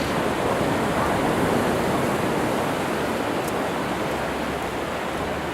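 Ocean surf washing on a beach: a steady rushing noise that swells a little and then eases off.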